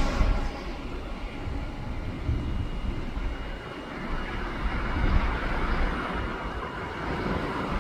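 Distant jet engine noise of a Boeing 767-300 freighter on its second approach, an uneven low rumble that grows a little toward the end.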